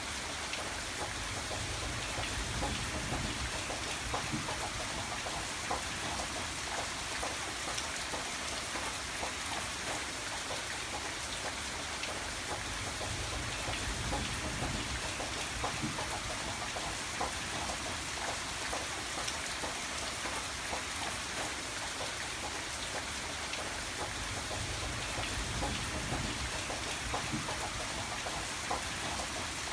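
Steady rain falling, many small drops ticking on a surface over an even hiss.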